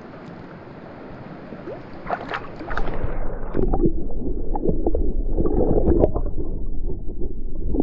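Creek water gurgling and sloshing around a camera. About three seconds in it turns louder and deeply muffled, as when the camera goes under the water.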